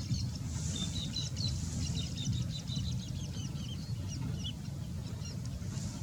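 Small birds chirping in a rapid series of short, high chirps that thin out over the last second or two, over a steady low rumble.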